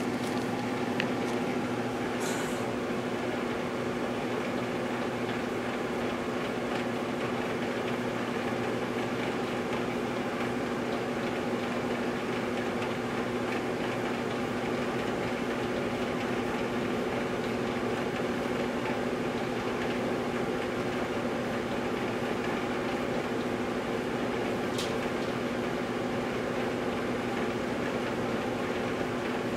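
Microwave oven running on a one-minute cook, heating Oreo cookies: a steady, even hum with a constant low drone.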